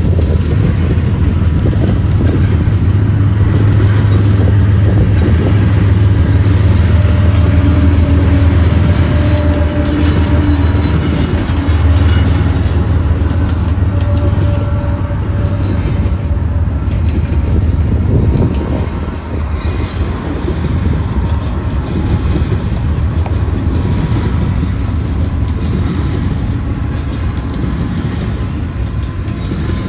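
A train passing close by: a deep diesel-locomotive rumble for about the first twenty seconds, which then gives way to the steady rolling noise of the cars on the rails.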